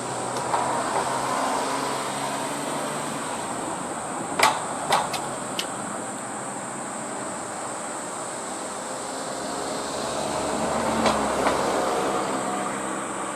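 Electric train running on the rails, its noise swelling and fading twice, with a quick run of sharp wheel clacks over rail joints a little over four seconds in.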